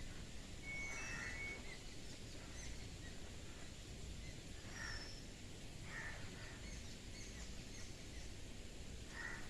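Crows cawing: a few short calls a few seconds apart, over a steady background hiss.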